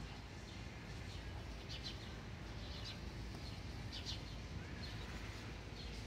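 Short, high bird chirps, a few of them about a second apart, over a steady low outdoor rumble.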